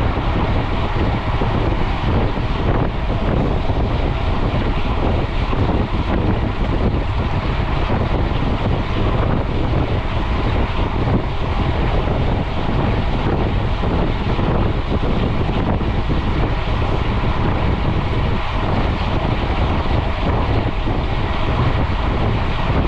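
Steady wind rush and rumble over an action camera's microphone from a mountain bike ridden at speed on a paved road.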